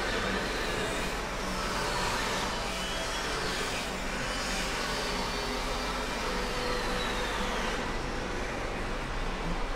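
A car engine running under an open bonnet, with the radiator cooling fan blowing: a steady mechanical whooshing noise over a low hum. Faint high whistles slide downward a few times.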